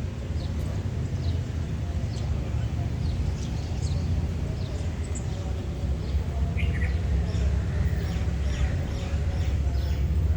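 A steady low rumble of the train standing at the platform, with birds chirping now and then and faint voices.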